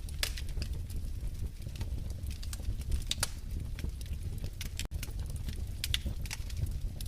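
Wood fire crackling in a fireplace: irregular sharp pops and snaps, several a second, over a steady low rumble of the burning, with a momentary gap about five seconds in.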